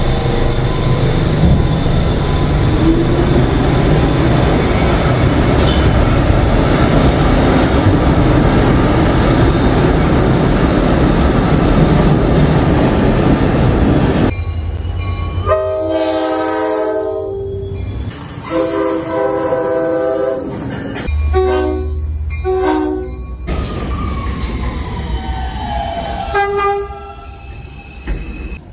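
Vintage NYC subway train of R-33 and R-36 cars running with a loud rumble of wheels and motors for about half the time, then sounding its horn in a series of repeated blasts.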